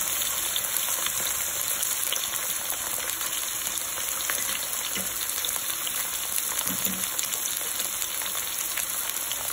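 Sliced tindora (ivy gourd) frying in hot oil in a kadai: a steady sizzling hiss flecked with fine crackles.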